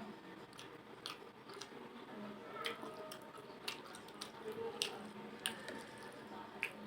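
Close-up eating sounds: wet chewing and squishing of spicy fish-head curry and rice, broken by a dozen or so short sharp smacks and clicks at irregular intervals.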